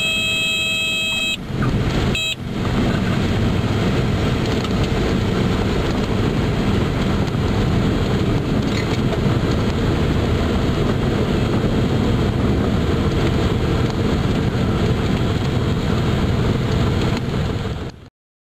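Cessna T206's turbocharged six-cylinder engine and propeller heard from inside the cabin as a steady, loud rumbling drone. A steady high multi-pitched tone sounds over it and stops about a second in. There is a brief break near two seconds, and the sound cuts off abruptly near the end.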